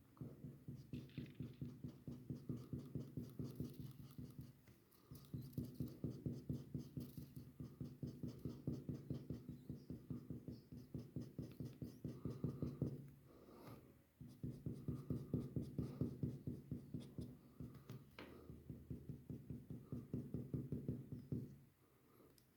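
A drawing tool scribbling on paper: quick back-and-forth colouring strokes, several a second, in runs broken by short pauses.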